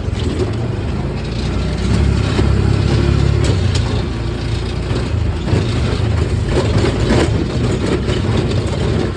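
A motor vehicle's engine running steadily, with a few short knocks or rattles.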